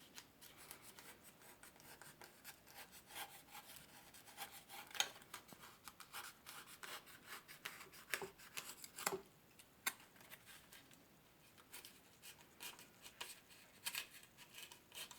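Faint, irregular scraping and rubbing of a knife blade trimming the edge of a styrofoam wing, in many short strokes.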